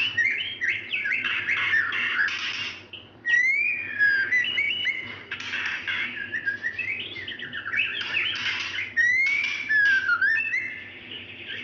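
Female white-rumped shama (murai batu) calling to a male: quick runs of chattering notes mixed with clear whistled glides, broken by a short pause about three seconds in.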